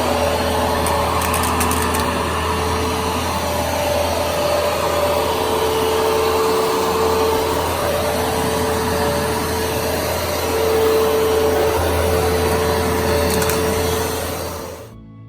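Upright carpet shampooer running steadily, its suction motor giving a loud hum with a steady whine over it while it cleans carpet. It stops abruptly near the end.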